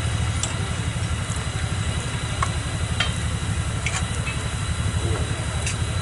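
Diesel locomotive engine running steadily with a fast low throb. A few short clicks and ticks come over it.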